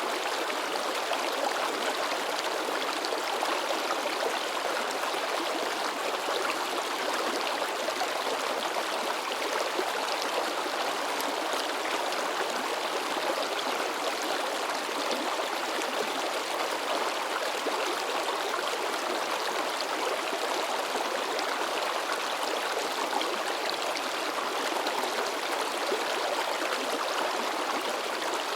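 Mountain stream babbling and splashing over rocks, a steady rush of flowing water.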